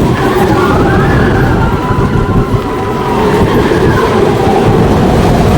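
Big Thunder Mountain mine-train roller coaster running along its track: a loud, dense rumble with long, high squealing tones that slowly rise and fall.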